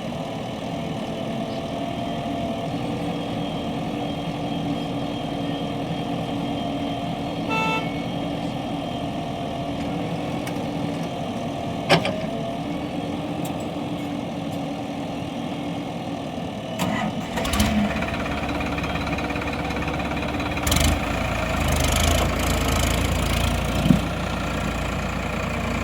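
Tractor diesel engines running steadily. A short pitched tone sounds about eight seconds in. From about two-thirds of the way through, a much heavier low rumble joins, with a few sharp knocks.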